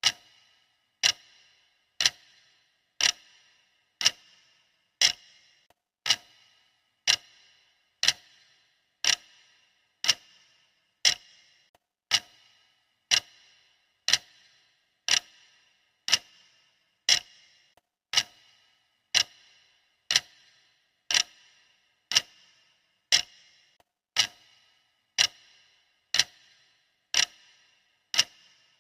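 Clock ticking sound of a countdown timer: one sharp tick a second, each with a short, bright ringing tail, steady and even throughout.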